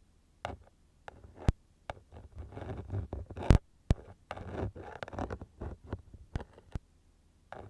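Ear-cleaning ASMR sounds on a binaural microphone's dummy ear: a tool scratching and rubbing in the ear, with scattered sharp clicks and a busier stretch of scraping in the middle.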